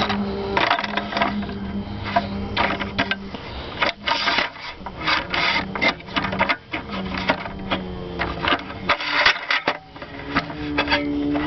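Irregular clicking, knocking and clattering as a camera tripod is set up and adjusted, with a low hum that comes and goes.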